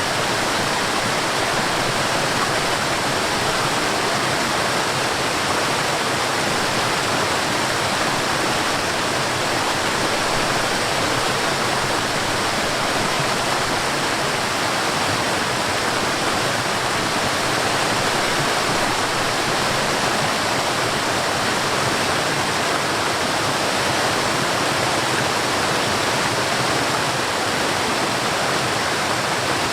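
Forest waterfall: water falling and rushing in a steady, even roar with no breaks.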